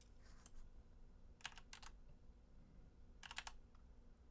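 Faint computer keyboard keystrokes in three short clusters, about half a second, a second and a half and three and a quarter seconds in, over a quiet room hum.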